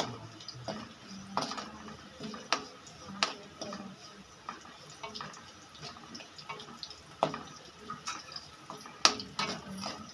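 Metal spoon stirring and knocking against a kadhai, with irregular clicks and scrapes, as onion masala fries in oil with a light sizzle.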